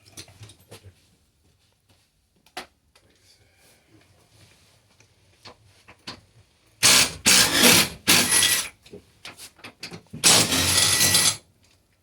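Cordless impact driver run in short loud bursts on fasteners: three quick bursts about seven seconds in, then a longer burst near the end, with faint knocks and clicks before them.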